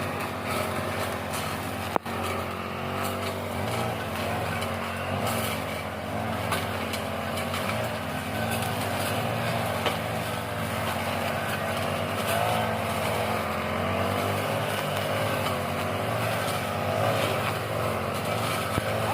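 An engine running steadily, with a single sharp click about two seconds in.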